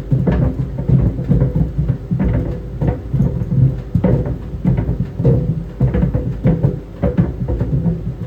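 Tennis balls tumbling in a running clothes dryer: irregular dull thuds against the drum, several a second, over the dryer's steady hum.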